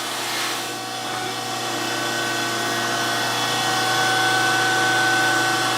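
DoAll surface grinder running, its wheel grinding across a Kurt vise: a steady machine hum and hiss. A high whine comes in about a second and a half in and the sound grows slowly louder.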